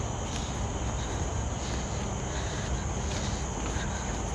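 Steady high-pitched drone of forest insects, over a low rumble.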